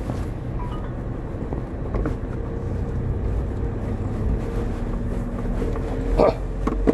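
Car driving, heard from inside the cabin: a steady engine and road rumble, with two short knocks near the end.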